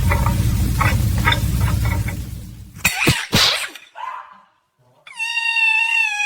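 A steady low rumble with a few short squeaky calls, then two sharp knocks, then an animal's long, high drawn-out cry that starts about five seconds in and sags slightly in pitch.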